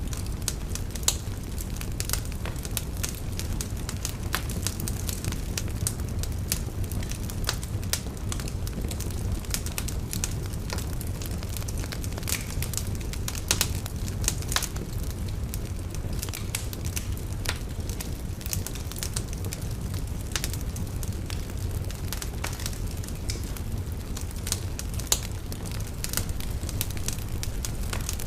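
Wood fire burning in a fireplace: a steady low rumble of flames with continual irregular crackles and a few sharper pops.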